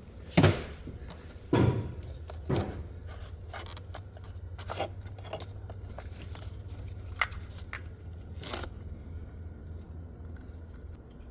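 Ford 2.0 EcoBoost variable cam timing solenoid clicking as a 12-volt jumper lead is tapped on and off its pin, pulsing the solenoid to clear debris from inside it. Three sharp clicks come in the first few seconds, then fainter ticks, over a steady low hum.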